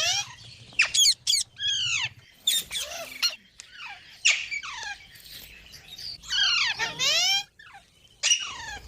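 Green parrot giving a rapid series of short, harsh squawking calls, many falling in pitch, with a longer call about six and a half seconds in.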